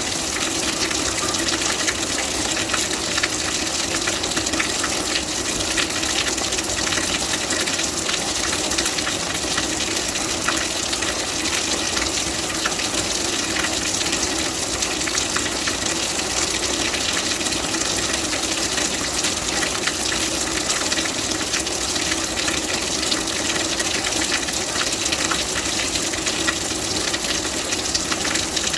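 Steady rain: an even hiss of countless small drop hits that keeps on without letting up.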